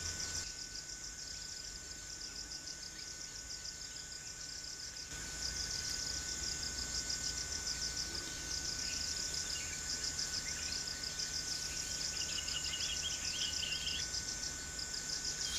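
Steady chorus of insects, a rapid pulsing high-pitched buzz, with a faint bird call warbling in about twelve seconds in.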